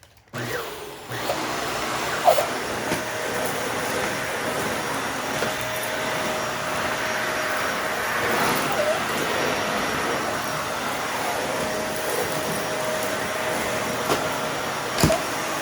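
Dyson vacuum cleaner switched on and running steadily while picking up spilled dirt, with a few short clicks and rattles along the way.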